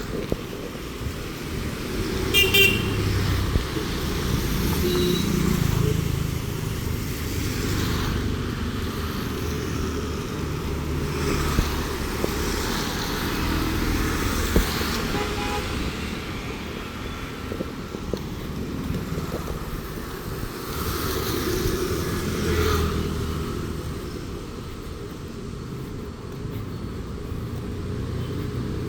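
Road traffic: vehicles passing in slow waves of engine and tyre noise, with a short horn toot about two and a half seconds in.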